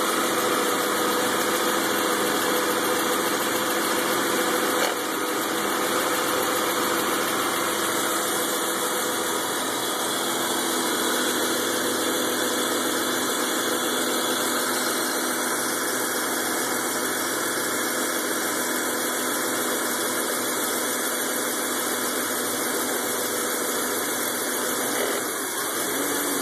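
BMW E39 528i inline-six engine idling roughly, a steady running sound with several held tones over it. The owner is chasing the cause among a vacuum leak, ignition coils, an O2 sensor and the CCV and idle control valves.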